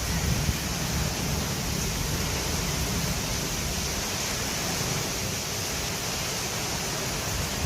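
Steady rushing noise of a storm, wind and rain, with a low rumble of wind buffeting the microphone.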